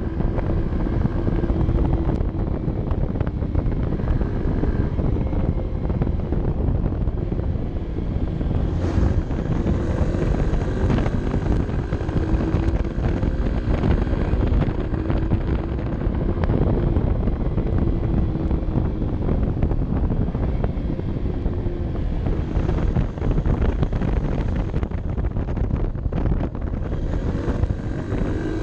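Honda CB 125 F's single-cylinder four-stroke engine running while the motorcycle is ridden, its pitch rising and falling gently, with heavy wind buffeting on the microphone.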